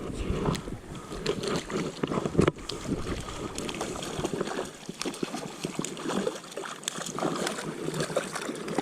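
River water sloshing and splashing close by, with many irregular small splashes over a steady rush of moving water.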